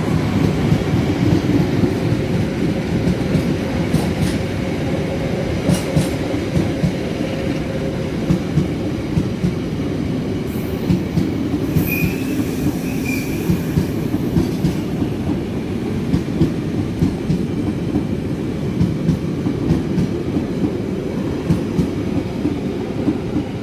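A train rolling through the station, its wheels clacking over rail joints in a steady run of beats over a loud rumble, with a brief high wheel squeal about halfway through.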